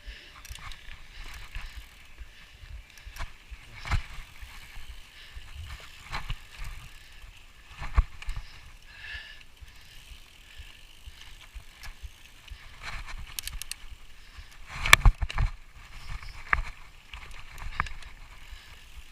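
Mountain bike riding over a rough dirt trail: steady rolling and rattling noise, broken by sharp knocks as it hits bumps, with the loudest cluster of jolts about fifteen seconds in.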